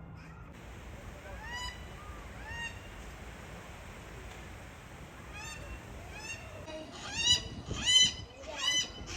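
Birds honking: a few scattered calls at first, then a loud run of repeated honks from about seven seconds in.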